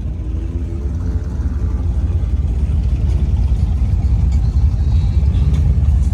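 Deep vehicle rumble, growing slowly louder.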